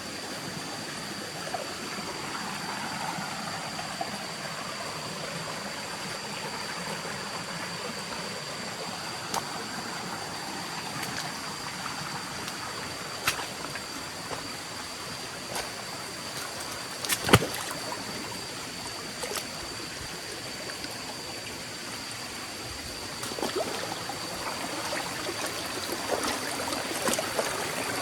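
Forest stream flowing steadily, with scattered sharp clicks and knocks on top, the loudest about seventeen seconds in, and busier clattering over the last few seconds.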